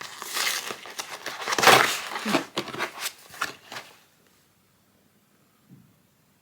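Parcel packaging rustling and crinkling as a book delivery is handled and unwrapped, in a run of short bursts that stops about four seconds in.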